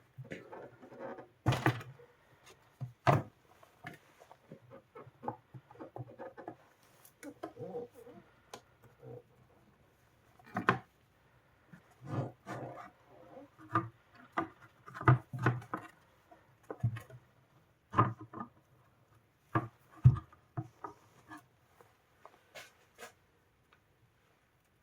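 Irregular clicks, knocks and rubbing of hands handling small parts and tools, with a few sharper knocks scattered through.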